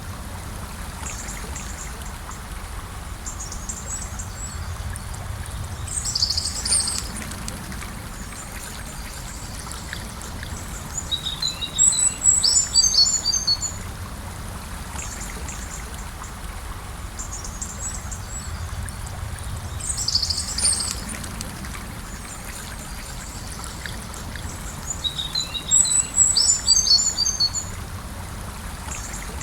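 A gentle river flowing steadily, with a bird singing short bursts of rapid high chirps over it four times.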